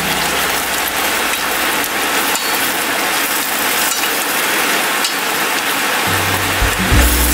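Shrimp and sauce sizzling and bubbling in a wok while a spatula stirs, with scattered clicks and scrapes of the spatula against the pan. Background music comes back in near the end.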